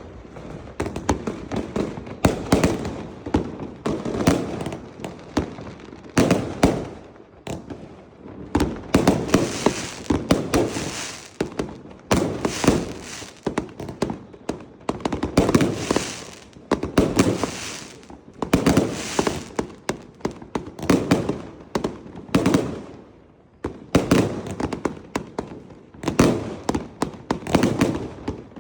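Fireworks going off in dense volleys of bangs and crackling, a fresh cluster of bursts every second or two, with a short lull shortly before the end.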